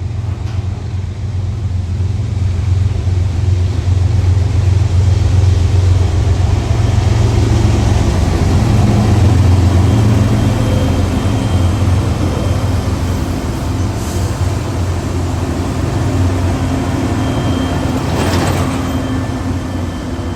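Diesel freight locomotives working hard under load as they shove a train: a steady deep engine rumble that swells to its loudest about halfway through, then eases off.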